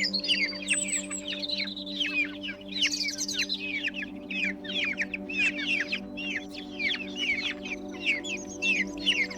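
Many small birds chirping at once in a dense, continuous chatter of quick high chirps, over a steady low hum.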